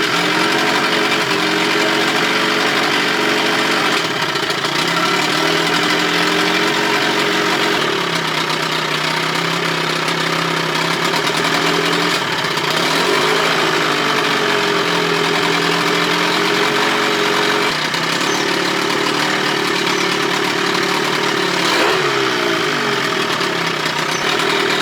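Johnson 25 hp two-stroke outboard motor running steadily, its pitch shifting up and down every few seconds.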